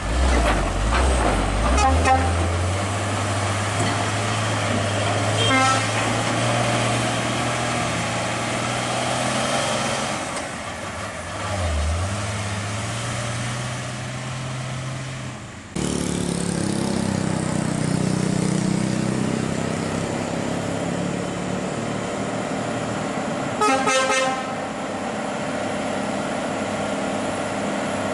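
Heavy diesel trucks running and pulling past, the engine note climbing about two seconds in as one accelerates away, with a short air-horn toot near six seconds and a louder horn blast near the end.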